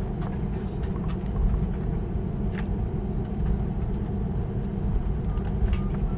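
Cabin noise of an Airbus A321neo taxiing after landing: a steady low rumble of the idling engines and rolling wheels, with a few faint clicks.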